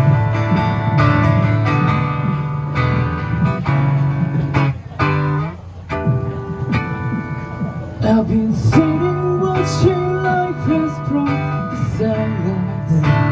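A small live band plays an instrumental passage: strummed acoustic guitar over bass, keyboard and cajon, thinning out briefly about five seconds in before coming back in.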